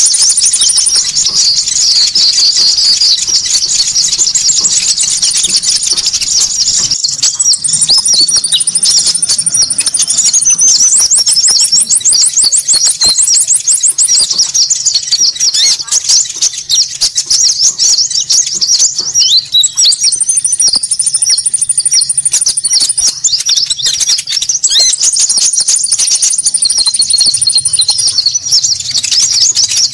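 Many small birds chattering and chirping at once in a dense, noisy chorus, with high, rapid trills breaking in several times. This is a bird-trapping lure call ('suara pikat') meant to draw in small birds.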